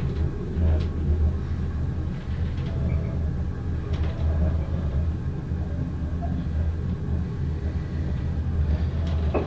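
Passenger train running along the track, heard from inside the carriage: a steady low rumble with a few faint clicks from the wheels and carriage.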